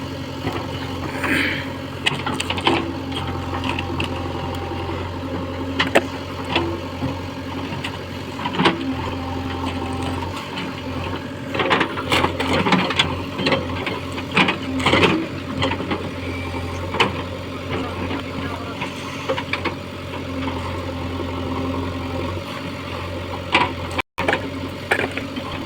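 Heavy diesel engine running steadily with a constant low hum, with scattered sharp knocks and clanks over it, most frequent around the middle.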